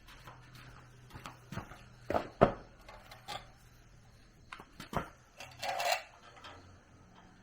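Irregular knocks and metallic clinks of tools and metal parts being handled during machine repair work. The loudest knock comes about two and a half seconds in, and a short rattle of small clinks follows near the six-second mark.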